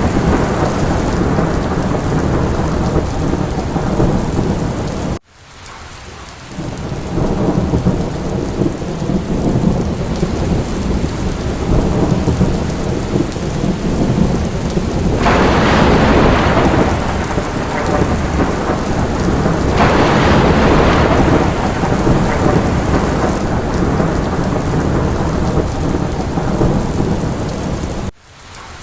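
Rainstorm: steady heavy rain with deep rumbling thunder, swelling twice in the middle. The sound drops out abruptly about five seconds in and again near the end, then comes back up.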